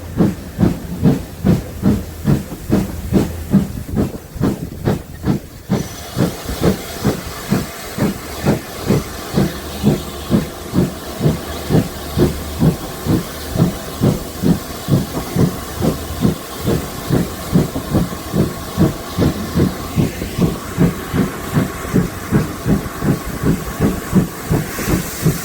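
Steam locomotive exhaust beats from GWR 2-8-0 tank engine No. 4247 working a train: a steady, even chuff about twice a second over a constant steam hiss, the hiss getting brighter about six seconds in.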